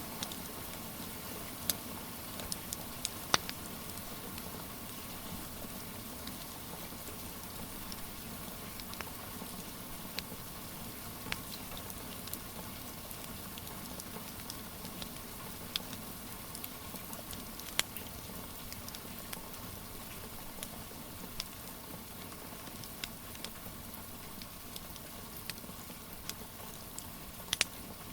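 Steady rain hiss with a wood fire crackling over it: sharp pops at irregular intervals, the loudest about three seconds in.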